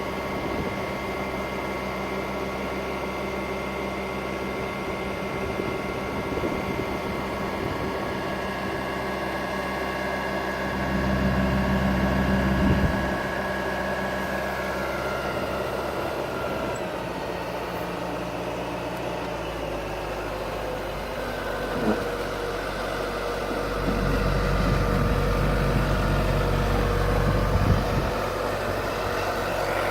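Cat RT80 telehandler's engine running at a steady idle. It grows louder with a heavier low rumble twice: for about two seconds around eleven seconds in, and for several seconds near the end.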